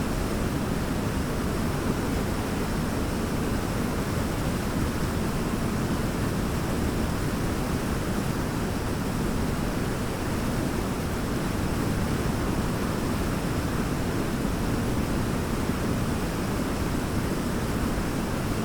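Large waterfall: a steady, deep roar of falling water with no breaks or changes.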